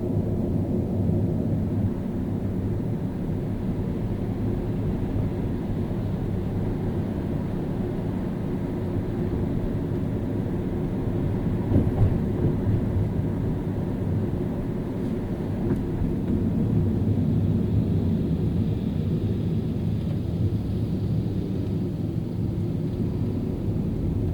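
Car driving through city traffic: a steady low rumble of engine and tyre noise, with a brief louder knock about halfway through.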